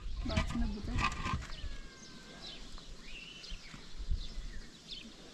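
Birds chirping in short rising and falling calls, with a low rumble and a short pitched call in the first second or so.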